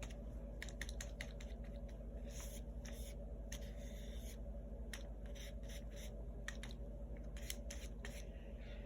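Paintbrush brushing and tapping on paper: faint, irregular light clicks and short scratchy strokes over a steady low hum.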